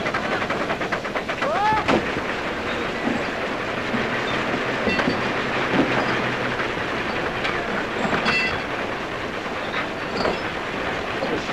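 Railway noise on an old film soundtrack: a steady clattering rumble of train and rail machinery, with a short rising tone about two seconds in and a brief high whistle-like tone around eight seconds.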